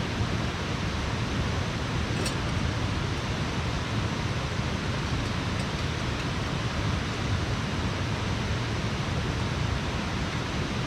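Steady rushing of a fast-flowing river, an even wash of water noise with a faint tick about two seconds in.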